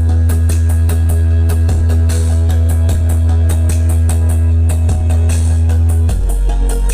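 Dance music played loud through a large horeg-style sound system: a heavy sustained bass note under a fast drum beat, the bass dropping to a lower note about six seconds in.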